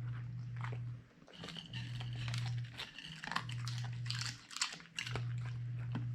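Siberian husky chewing and crunching on grilled mackerel, with many short crackly bites that come thickest around the middle. Under them runs a low hum that breaks off and comes back roughly every second.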